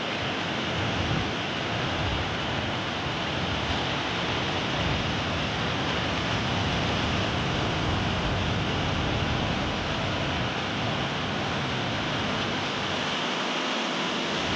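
Steady rushing noise of sea surf.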